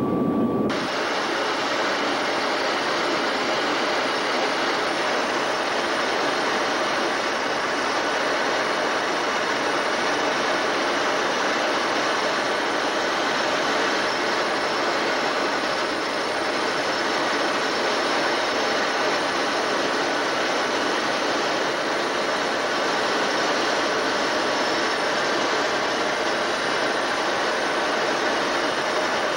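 Steady jet noise of an E-3D Sentry AWACS aircraft: an even rushing hiss with a faint high whine, unchanging throughout.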